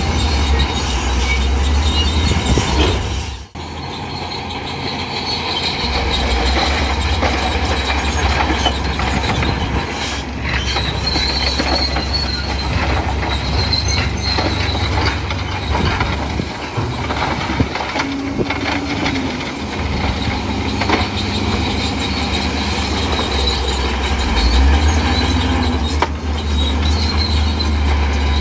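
Crawler bulldozer at work: its diesel engine runs steadily under load while its steel tracks squeal.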